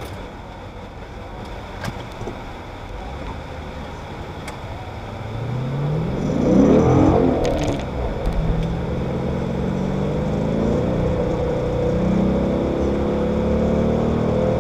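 Dodge Challenger SRT8's V8 engine heard from inside the cabin, rising in pitch as the car accelerates about five to seven seconds in, then running steadily at cruising speed.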